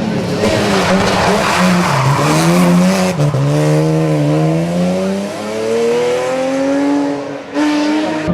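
Competition car engine pulling hard, its pitch dipping and climbing again with each gear change and rising steadily through the later seconds, with a short lift just before the end. A rush of tyre noise over the first few seconds.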